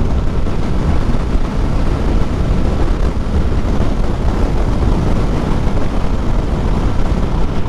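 Steady wind noise buffeting the helmet microphone of a motorcycle rider at highway speed, with the bike's running mixed underneath.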